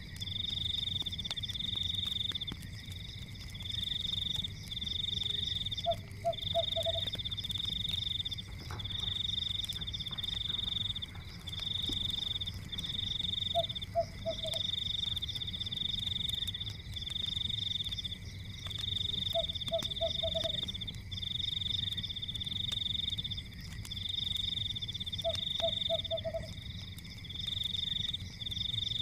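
Fireplace-and-forest sleep soundscape. An animal chorus sings a high trill in back-to-back bursts of about a second, and a lower call of four quick notes comes back about every six seconds. Faint crackling and a low steady rumble lie underneath.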